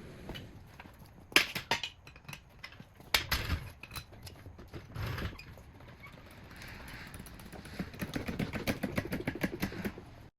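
Metal knocks and clanks from tools and wheel hardware during a wheel change, with sharp strikes about one and three seconds in. A fast run of clicking comes near the end.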